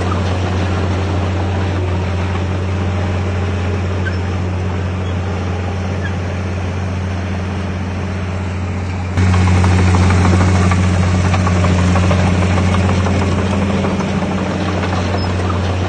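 Heavy diesel engine of earthmoving machinery running steadily with a deep, even hum. It gets suddenly louder about nine seconds in.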